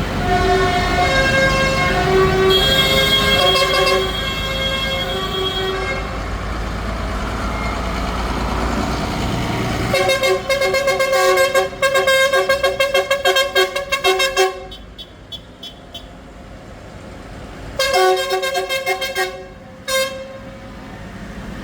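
Vehicle horns tooting over the low rumble of passing tractor engines: two held horn notes in the first few seconds, then a quick run of many short toots, and a few more short blasts near the end.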